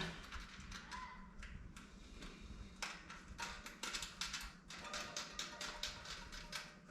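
Faint, irregular small clicks and ticks, several a second, as the lock ring is threaded by hand onto a tubeless valve stem through the rim.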